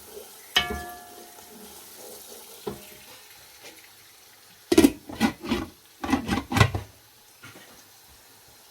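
A metal lid set down on a cooking pot with one sharp clang that rings on briefly, about half a second in. A lighter knock follows, then a quick run of loud clattering knocks of cookware near the middle, over a faint sizzle of food frying.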